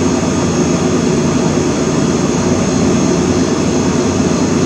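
A steady mechanical drone: an even rushing noise with a low hum in it, unchanging throughout.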